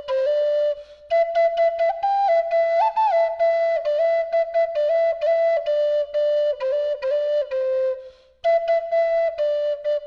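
Native American drone flute in the key of A playing a melody of short, separate notes that step up and down, with brief pauses about a second in and about eight seconds in.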